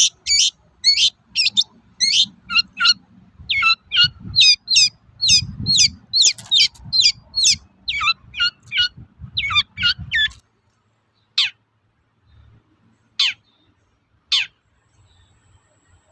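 Long-tailed shrike (cendet) giving its 'toet-toet' calls: a rapid run of sharp notes that sweep down in pitch, about two to three a second. The run stops about ten seconds in, and three single calls follow a second or so apart.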